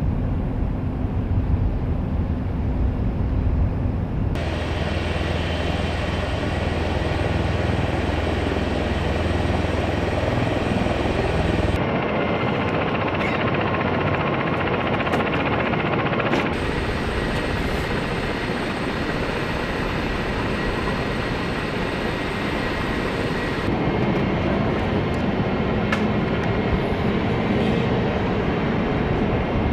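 CH-53E Super Stallion heavy-lift helicopter running, its three turboshaft engines and rotors giving a steady loud rumble with a high whine. The sound changes abruptly several times, as the shots cut from one view to another.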